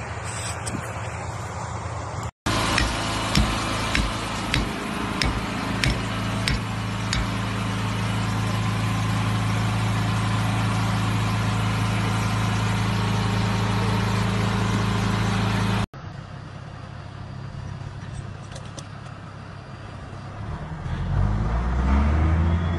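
A vehicle engine running steadily, with several sharp knocks or clunks early on. The sound cuts abruptly twice, and near the end a quieter engine rises in pitch.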